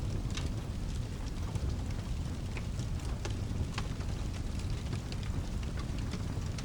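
Mixed ambience of a fireplace crackling, with sharp sparse pops a few times a second, over rain and a steady low rumble.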